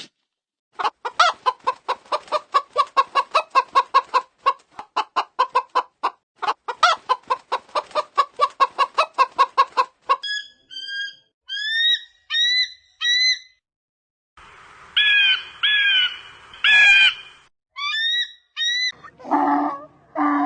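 Chickens clucking in a fast run of repeated notes, then a string of short, high calls that rise in pitch, separated by brief pauses.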